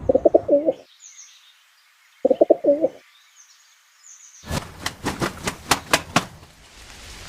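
A pigeon cooing in two short phrases, with a few faint high chirps between them, then a quick run of about seven sharp claps about three-quarters of the way through.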